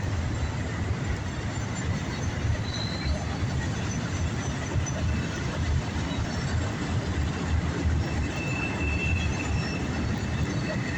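Freight cars of a CSX train rolling past at steady speed, with a continuous rumble of steel wheels on the rails and a faint, thin wheel squeal about eight seconds in.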